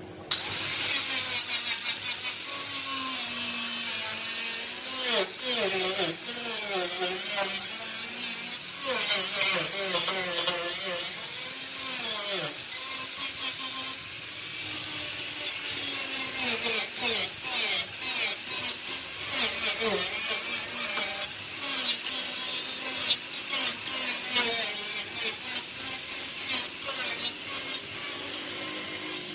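A tool working on metal: a continuous rasping noise with wavering squeals through it, starting abruptly just after the beginning.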